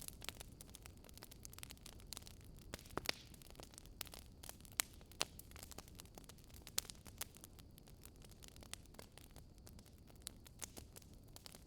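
Wood fire crackling: irregular snaps and pops over a soft steady hiss, with a few sharper pops scattered through.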